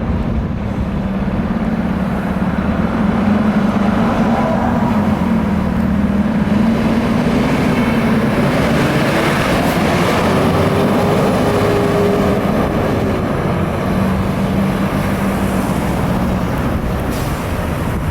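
FDNY fire apparatus driving past on an emergency response: loud engine and road noise with a low steady tone, and a siren sweeping up and down around the middle.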